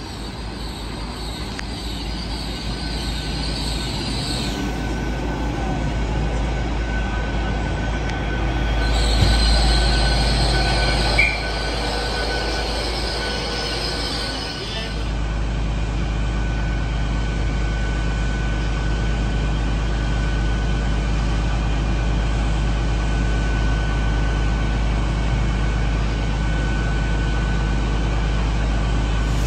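Great Western Railway Intercity Express Train braking into a platform, its brakes squealing high-pitched in two spells, in the first few seconds and again from about 9 to 15 seconds in. After that the train stands with a steady low hum and a constant whine from its running diesel engines.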